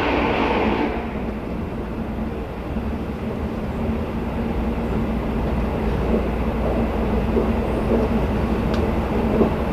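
Steady running noise of the Twilight Express sleeper train heard from inside a carriage: wheels rolling on rail with a low rumble and a steady hum. In the first second a train passing on the adjacent track adds a loud rush that fades away quickly, and a couple of light clicks from the rails come near the end.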